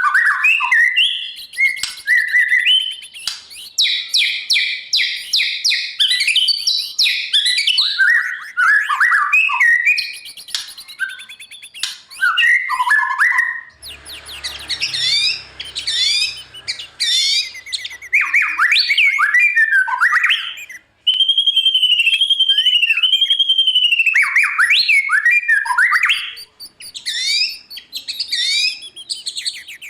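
White-rumped shama singing a varied song of rich whistles, fast trills and gliding notes, including a run of repeated arching notes past the middle.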